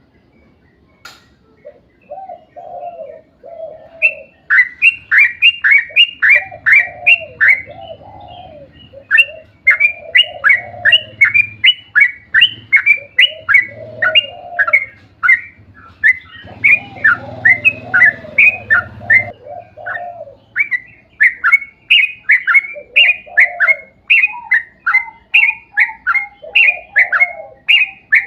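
Yellow-vented bulbul (trucuk) singing a long, fast series of sharp chirping notes, about four a second, starting a few seconds in. Lower warbling notes run alongside.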